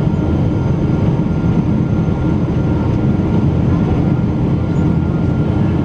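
Boeing 777-200 airliner's engines heard inside the passenger cabin as a steady low rumble, with faint steady tones above it.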